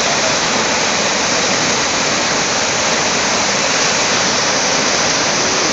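Saar waterfall in winter flood, a loud, steady rush of falling water.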